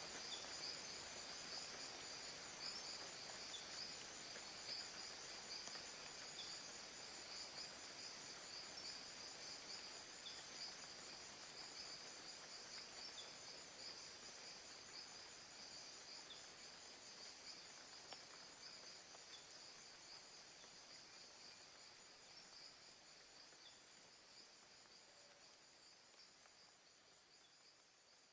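Rainforest ambience of an insect chorus: a steady, pulsing high-pitched trilling, with a faint short chirp every two to three seconds. The whole soundscape fades out gradually toward near silence.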